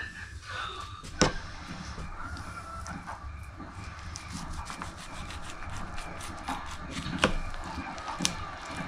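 A knife cutting and scraping through a king salmon on a cutting board, with rubbing strokes and a few sharp knocks, the loudest about a second in.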